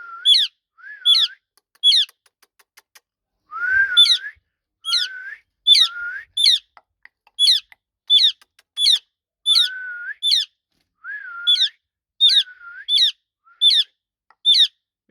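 Indian ringneck parakeet whistling a repeated two-part call, a low swooping note running straight into a sharp high note, over and over at about one to two calls a second, with a short break about three seconds in.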